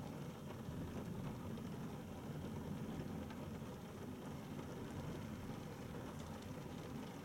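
Steady rain falling, with occasional faint ticks of single drops.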